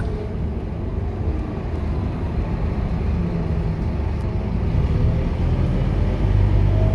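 Scania K230UB bus's diesel engine running with a steady low drone, growing a little louder near the end.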